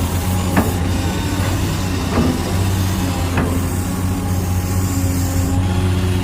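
Remote-control construction truck running with a steady engine-like hum, with a few short clicks.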